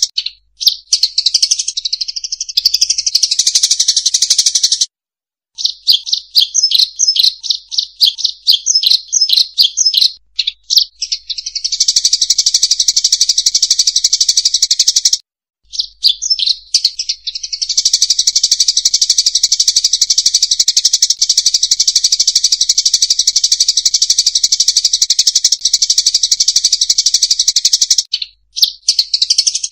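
Dense, rapid high-pitched chirping and twittering of a flock of emprit sawah (rice-field munias), played as a bird-trapping lure call. It is broken by a few brief silent gaps, and in one stretch it becomes a quick run of separate chirps.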